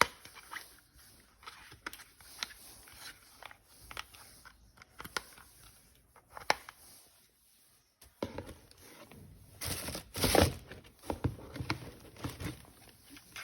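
Plastic packaging and toy parts being handled: scattered light clicks and knocks, then a louder stretch of crinkling and rustling about ten seconds in.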